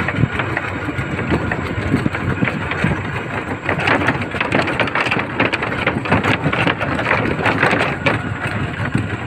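Small tractor engine running steadily, with a harsher, rattling edge from about four seconds in.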